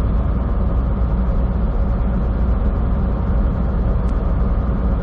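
Steady low engine drone and road noise inside a semi truck's cab at highway speed.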